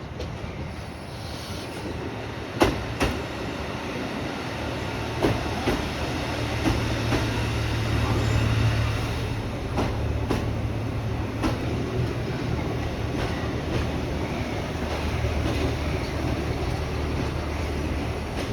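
Train running on the rails: a steady low rumble with sharp wheel clicks over the rail joints, mostly in pairs, every second or two.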